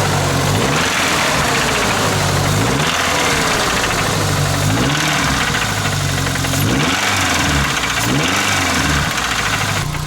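Pickup truck engine with a knock, idling and revved briefly about four times, each rev rising and falling back to idle. Lucas Oil Stabilizer has just been added to the oil to try to quiet the knock.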